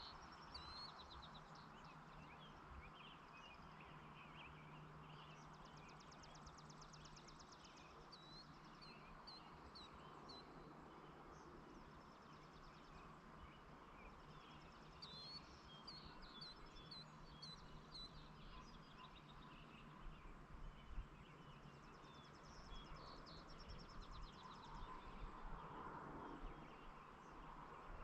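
Faint rural evening ambience: scattered short bird chirps and rapid trills come in a few clusters over a steady low hiss and hum.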